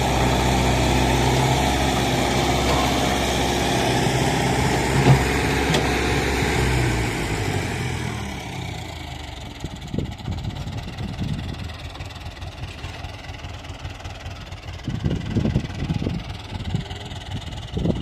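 The diesel engine of a mechanical digger runs steadily. About seven seconds in, its pitch drops as it slows down. After that the engine is quieter, and there are scattered short sounds.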